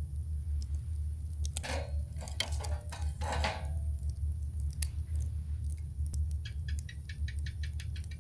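Campfire burning, with scattered crackles, a dense flurry of crackling and popping between about one and a half and four seconds in, and a rapid run of small ticks near the end, over a steady low rumble.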